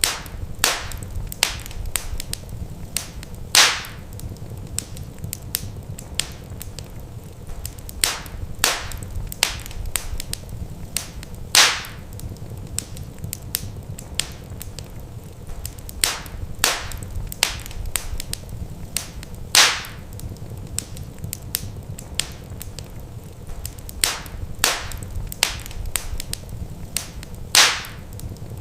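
Wood fire crackling in a fireplace: frequent sharp snaps and pops, the loudest every eight seconds or so, over a steady low rumble of the flames.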